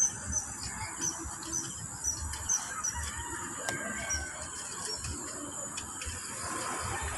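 Birds chirping: short high calls repeating about twice a second, over a steady high-pitched background hum.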